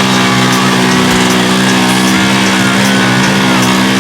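Off-road vehicle engine held at high, steady revs while pulling hard in a tug of war.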